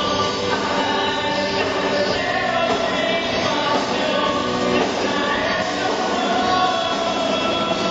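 Band playing a worship song, with singing over the instruments.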